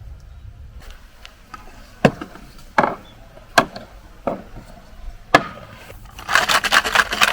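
Wood being struck: five sharp knocks spaced a little under a second apart, then a burst of fast clattering and rustling near the end.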